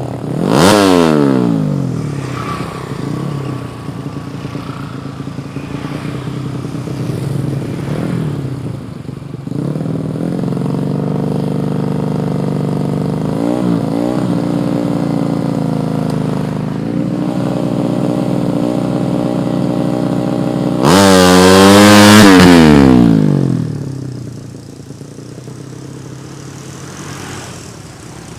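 Tuned 130cc drag-bike engine being revved on the throttle. A sharp blip near the start drops back fast, the engine then holds a steady raised speed with a couple of short blips, and one loud rev a little after twenty seconds falls away to a quieter idle.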